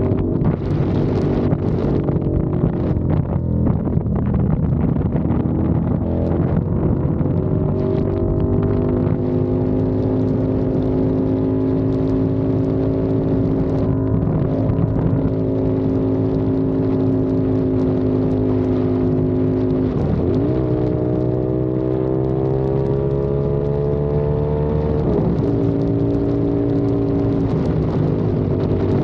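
CFMOTO 450SR's parallel-twin engine running under way, with wind buffeting the microphone in the first few seconds. The engine pitch holds steady, drops sharply about twenty seconds in, climbs again as it accelerates, and drops once more around twenty-five seconds before settling.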